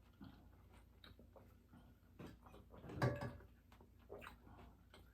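Faint chewing and mouth sounds from eating a crispy chicken and bacon lettuce wrap, with scattered small clicks and one short, louder sound about three seconds in.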